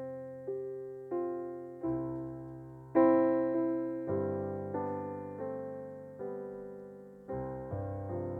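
Slow solo piano music: single notes and chords struck about once or twice a second, each left to ring and fade.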